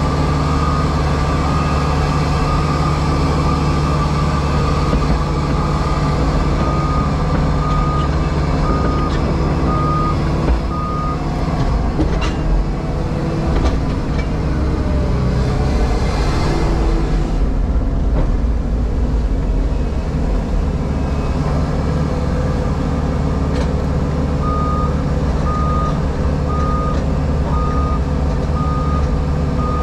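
Diesel engine of a JCB Pothole Pro running steadily, heard from inside the cab. Its reversing alarm beeps at about two beeps a second for a few seconds early on, stops, and starts again near the end as the machine backs up.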